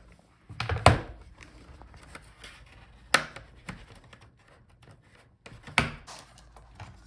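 Plastic retaining clips of an HP Envy 17m laptop's bottom cover snapping free as a pry tool works around its edge: three sharp snaps about two and a half seconds apart, the first the loudest, with lighter clicks and scraping of the tool between.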